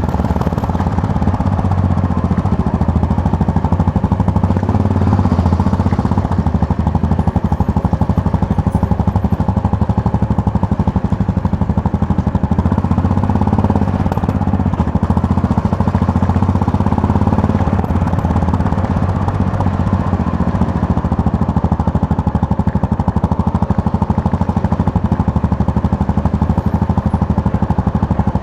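Yamaha MT-03 motorcycle engine running steadily under way, heard from the rider's position, with a fast even pulsing to its note.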